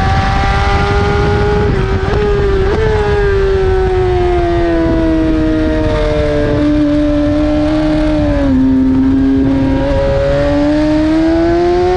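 BMW S1000RR inline-four sport bike engine at speed on track, heard from on board with wind rushing over the microphone. The engine note sinks slowly in pitch through the middle, then climbs again near the end as the revs build.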